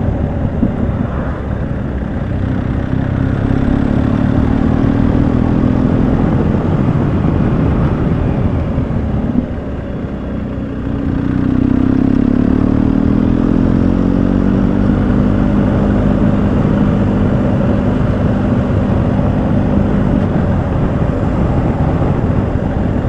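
BMW motorcycle and sidecar engine running under way, with wind and road noise. About ten seconds in the engine eases off and goes quieter, then its note climbs as it pulls away again and holds steady.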